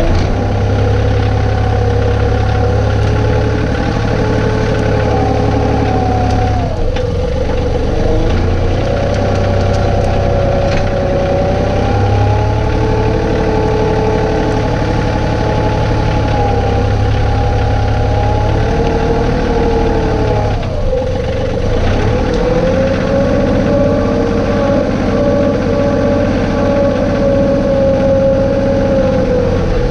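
John Deere 2032R compact tractor's three-cylinder diesel engine running steadily. Its engine speed dips briefly and recovers twice, about 7 seconds in and again, more deeply, about 21 seconds in.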